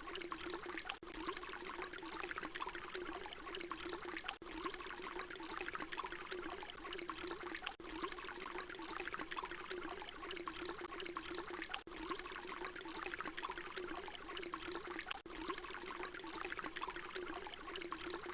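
Water pouring in a steady, continuous stream. The recording loops, with a brief dip every three to four seconds where it repeats.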